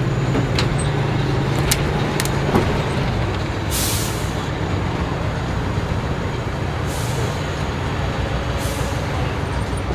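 Heavy off-road truck engine running steadily, with three short hissing bursts.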